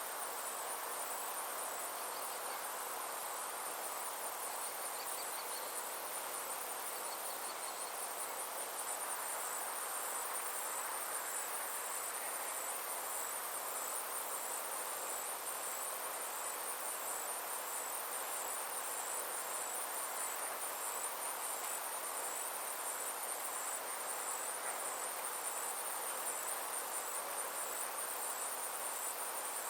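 Insects chirping in a steady, high-pitched, evenly repeating pulse, over a soft, even hiss.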